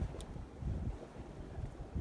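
Wind buffeting the microphone: an uneven low rumble in gusts.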